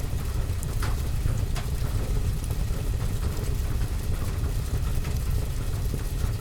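Steady rain on a roof and window, heard as an even low rumble with hiss, and a wood fire in a fireplace giving a few sharp crackles and pops, mostly in the first couple of seconds.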